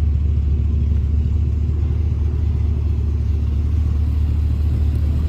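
A vehicle engine idling: a steady, even low rumble.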